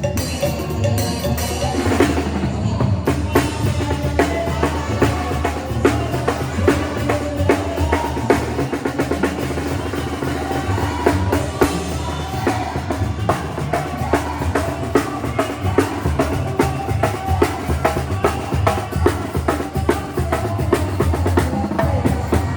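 Mexican banda music playing: dense drumming with many quick strokes over a steady, deep bass line.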